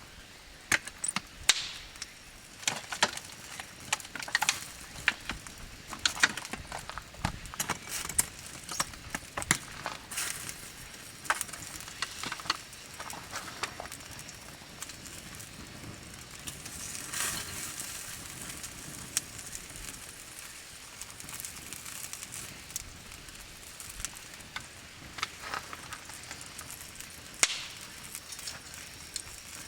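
Wood campfire crackling with irregular sharp pops, thicker in the first half, over a faint steady hiss.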